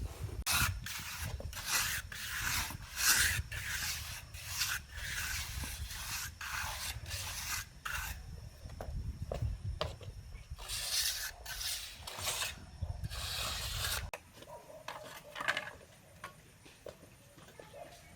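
Repeated scraping strokes of a hand tool working concrete, about two a second, with a short lull partway through; the strokes fade near the end.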